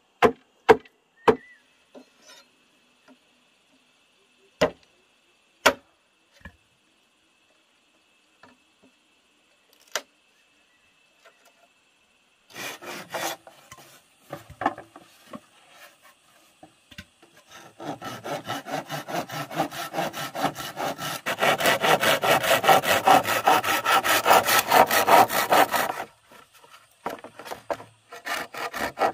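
Hand saw cutting through wood in fast, even back-and-forth strokes, after a few sharp separate knocks in the first half.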